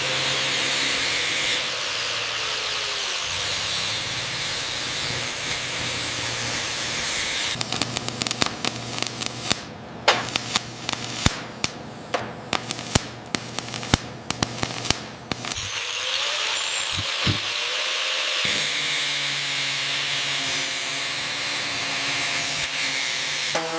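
Steady hissing workshop power-tool noise working on metal. For several seconds in the middle it is broken by a run of sharp, irregular cracks and clicks, then it goes steady again.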